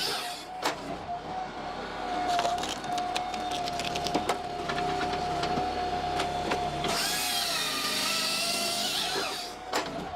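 Brute Force 14-24 firewood processor working pine logs: a steady machine whine under a run of sharp clicks and knocks. A louder rushing stretch comes about seven seconds in and lasts a couple of seconds.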